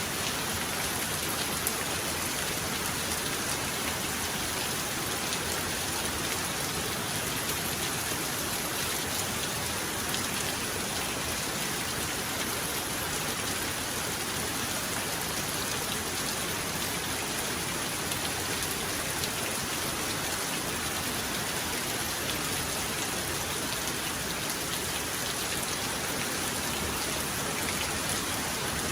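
Heavy rain falling steadily, a continuous even hiss of drops with no thunder in this stretch.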